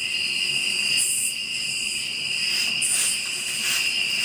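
Night insects calling: a continuous high trill of crickets, with short bursts of a higher, hissier insect call about a second in and again near three seconds.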